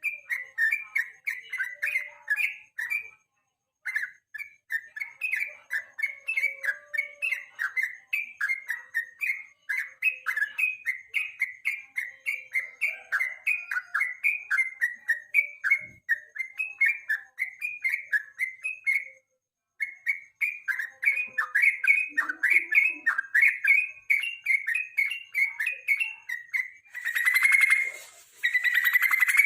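Sooty-headed bulbul singing: a long run of short, bright whistled notes, about three a second, broken by two brief pauses and ending in a denser, louder burst.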